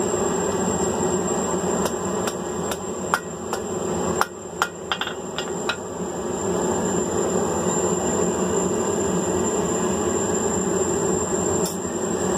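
Blacksmith's hammer striking hot mild steel on an anvil while forming the hook end of a trommel bar: a quick run of about ten blows in the first half, then a single blow near the end. A steady rushing roar runs underneath the blows.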